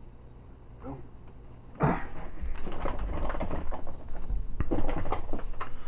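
Small plastic toy parts and a spring being handled and fitted together: a dense run of clicks and rustles that starts suddenly about two seconds in.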